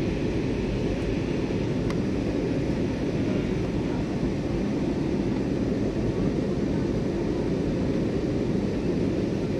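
Aeroplane cabin noise: a steady low rush of engines and airflow heard from inside the passenger cabin.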